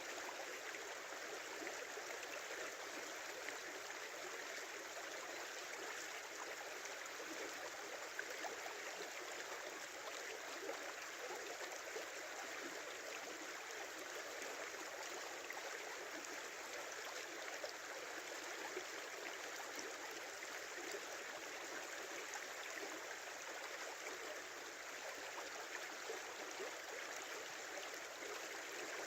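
Small river flowing steadily: an even rush of running water with faint little splashes.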